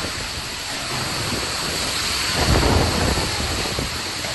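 Heavy rain pouring down in a windstorm, a steady dense hiss, with a deep rumble swelling a little past halfway.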